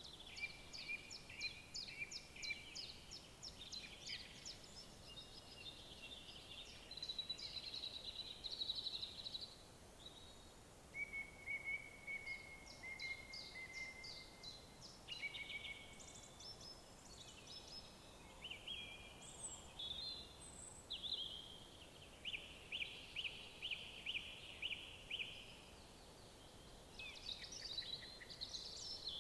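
Songbirds singing in a forest, several overlapping songs of rapid repeated notes and trills, over a faint steady background hiss.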